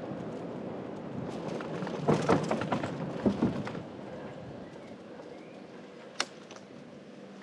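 Riding noise of an electric bicycle: a steady low rumble with a cluster of rattling knocks and clicks about two seconds in, then a single sharp click near the end.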